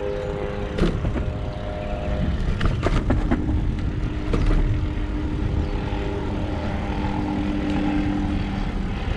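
Riding noise on an electric bike: low wind and road rumble with a steady motor hum that shifts slightly in pitch, and a few short rattles about a second in and around three seconds in.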